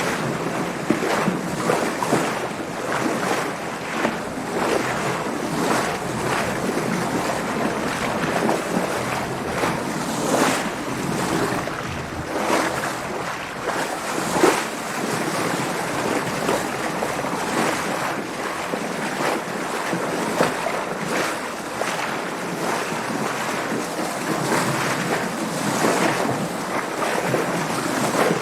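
Water splashing and sloshing against a sailing boat's hull, with wind noise, in a continuous rush broken by frequent short splashes.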